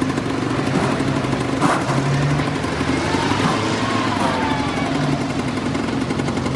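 Engine running steadily at idle, with an even, fast pulsing beat.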